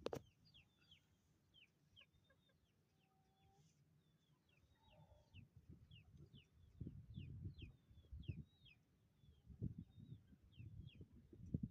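Faint, rapid high chirps of small birds, each a short falling note, two or three a second, with low rumbling knocks coming in from about six seconds in.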